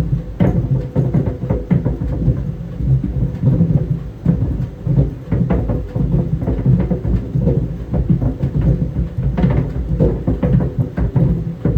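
Tennis balls tumbling in a running clothes dryer, knocking irregularly against the drum several times a second over a steady low rumble.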